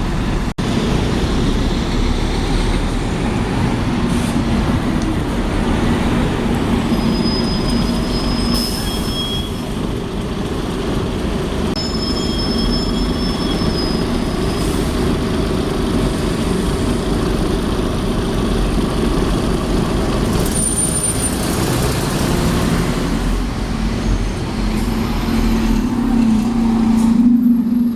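A rail vehicle running, a loud, steady rumble with several brief, thin, high-pitched squeals, growing louder near the end.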